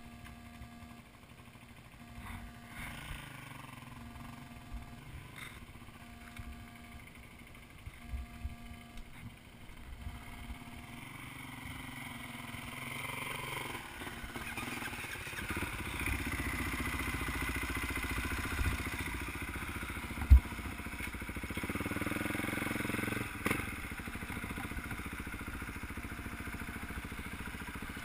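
Dirt bike engines: a faint steady running for the first ten seconds or so, then louder from about twelve seconds in, revving up and down twice. A single sharp thump stands out about two-thirds of the way through.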